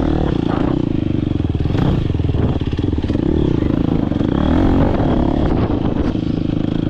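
Dirt bike engine running hard under race riding, its pitch rising and falling with the throttle, with scattered clattering knocks from the bike over rough ground.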